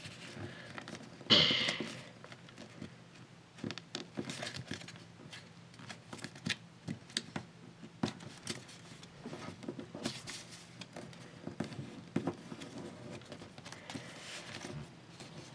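Sheet of paper being folded and creased by hand: scattered short crinkles, rustles and taps, with a louder rustle about a second in.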